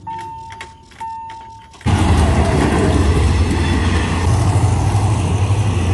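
Level-crossing warning bell ringing twice, about a second apart, each ring fading. Then, about two seconds in, the loud steady rumble of a passenger train's coaches rolling over the crossing takes over suddenly.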